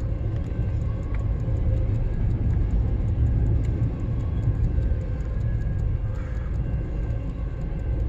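Freight train cars rolling past as the train picks up speed: a steady low rumble with faint steady tones above it.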